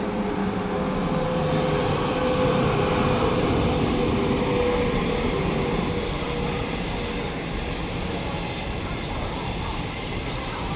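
China Railway SS8 electric locomotive hauling a passenger train past at speed: a loud, steady rushing rumble of the locomotive and coaches on the rails. A steady humming tone sits under it for the first half and fades as the locomotive goes by, leaving the rush of the coaches.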